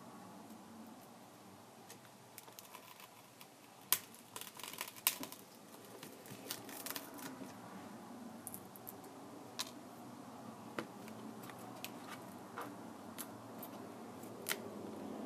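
Scattered small clicks and taps from handling a Kindle Fire tablet and small repair tools during a screen replacement, the sharpest clicks about four and five seconds in, over a low steady hum.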